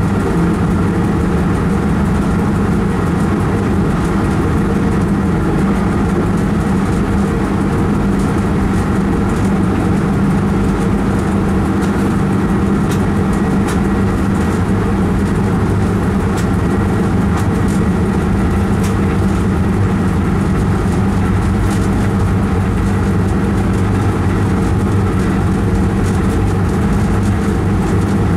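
Train running steadily through a tunnel, heard from inside the driver's cab: a loud, even drone of the running train with a steady low hum and a few faint clicks in the middle.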